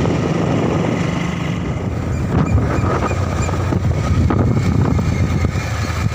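Motorbike on the move: a steady engine hum with wind rushing over the microphone.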